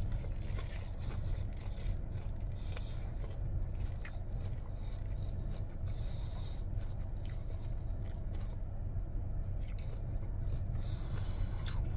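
Quiet chewing of a breaded country fried steak, with small scrapes and clicks of a plastic fork against a takeout container, over a steady low hum inside the car.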